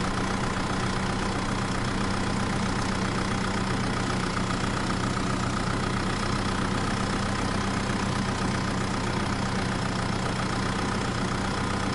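Motor of a homemade mini tractor running steadily at an even, unchanging pitch.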